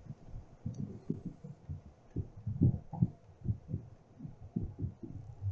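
Irregular low thuds and rumble on the microphone, several a second, with no voice.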